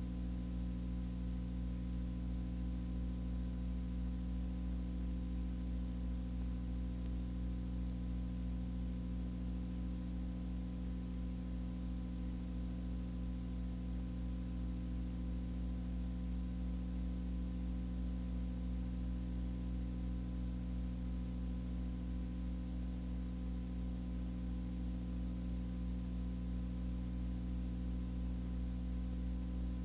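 Steady electrical hum and hiss, unchanging throughout: a low buzz made of several stacked low tones with an even high hiss above it.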